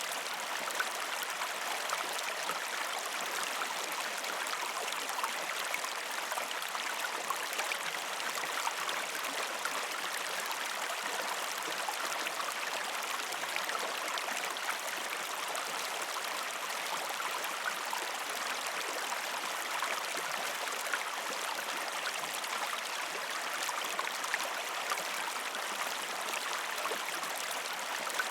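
Gentle river stream flowing over rocks: steady running water with many small splashes, unbroken throughout.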